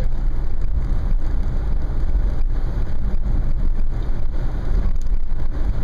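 Wind buffeting and rushing through the open sunroof of a 2010 Nissan Murano at about 25 mph, heard inside the cabin as a steady, loud low rumble with road noise beneath it.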